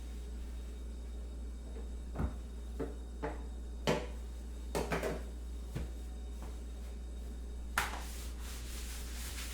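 Light knocks and clicks of kitchen things being handled and set down, about eight of them over several seconds, the sharpest near the middle and one near the end, over a steady low hum.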